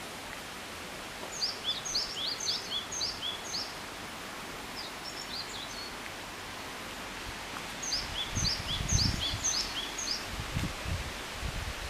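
A songbird singing three bursts of quick, high, repeated falling notes with pauses between, over a steady outdoor hiss. Low rumbling bumps come in during the last few seconds.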